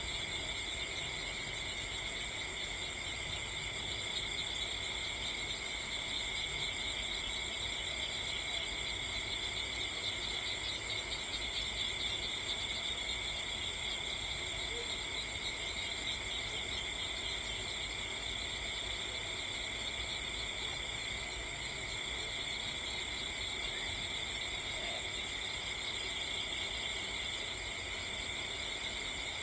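Steady, unbroken chorus of crickets and other insects, several pitches layered together, over a faint low rumble.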